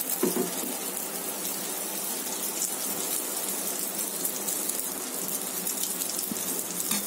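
Oats and egg omelette batter sizzling steadily in hot oil on a cast-iron tawa, a fine crackling hiss.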